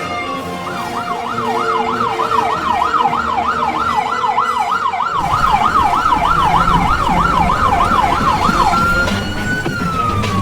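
Fire truck siren switching from a slow wail to a fast yelp, about three sweeps a second, and back to a slow wail near the end.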